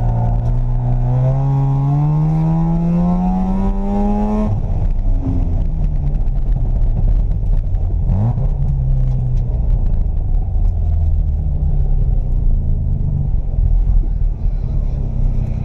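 1982 Mazda RX-7's 12A two-rotor rotary engine accelerating hard on an autocross run, its pitch rising steadily for about four and a half seconds. Then the pitch drops suddenly, and the engine runs on lower and rougher, with a brief rise about eight seconds in.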